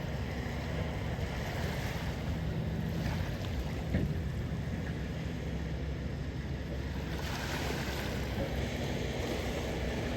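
Ocean waves washing ashore with wind buffeting the microphone, over a steady low hum.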